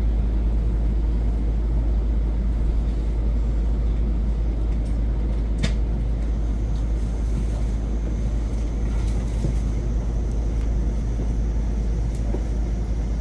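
Shinkansen train running, a steady deep rumble with running noise. A single sharp click sounds about halfway through.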